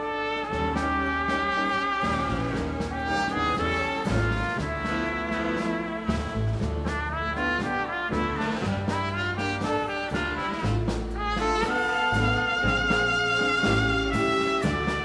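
A live dance band plays a tango instrumental passage. Trumpets and trombones carry the melody over a pulsing bass line.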